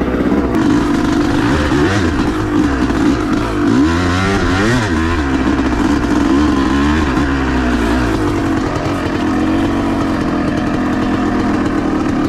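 Dirt bike engine running under throttle as it is ridden, its pitch rising and falling quickly with shifts and throttle changes a few seconds in, then holding steadier.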